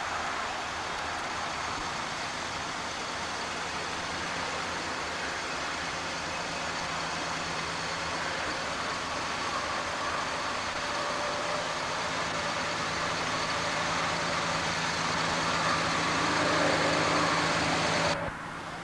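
A heavy vehicle or machine engine runs steadily and grows a little louder towards the end, then cuts off abruptly shortly before the end.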